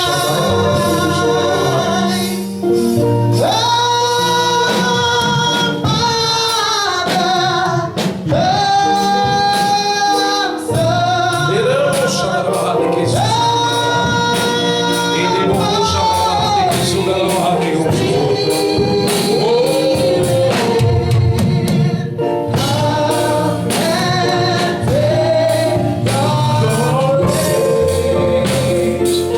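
Gospel worship song sung by a choir over instrumental accompaniment, slow, with long held notes that waver with vibrato.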